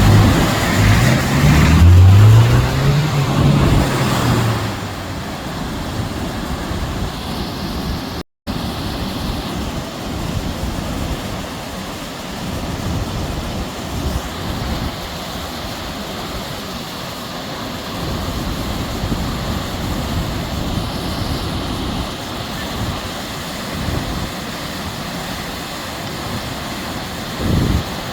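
For the first few seconds a vehicle engine rises and falls in pitch over the noise. After a brief cut, a steady rush of heavy rain with wind on the microphone.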